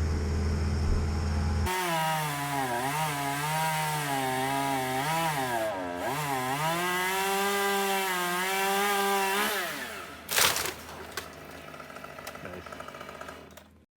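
A low hum, then a chainsaw running at high revs and cutting, its pitch sagging and recovering as the bar loads in the wood. After about eight seconds the saw stops, and a sharp crack or crash follows a second later.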